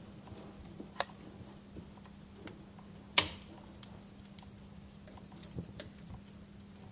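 Wood fire crackling in a fireplace: scattered sharp pops, the loudest about three seconds in, over a faint steady low hum.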